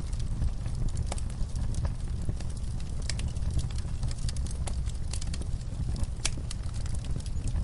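Wood fire burning in a fireplace: a steady low rumble of flames with irregular sharp crackles and pops, the loudest pop about six seconds in.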